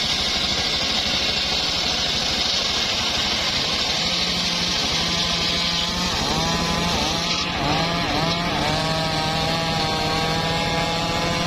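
Homemade engine-driven circular sawmill cutting an old, hard mahogany log: the engine runs steadily under the blade's high cutting hiss. The hiss drops away about seven seconds in, leaving a wavering whine that rises and falls as the load on the blade changes.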